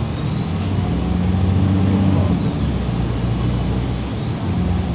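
MAZ 203.065 city bus's diesel engine heard from inside the passenger cabin, running under load and swelling for about two seconds before easing. A thin high whine climbs and falls with it, rising again near the end.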